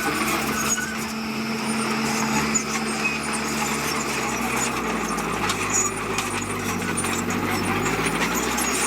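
Diesel engine of heavy earthmoving equipment running steadily. Its note drops lower about halfway through.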